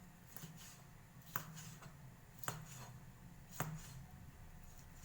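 Knife striking a cutting board in three sharp chops about a second apart, with fainter taps in between, over a steady low hum.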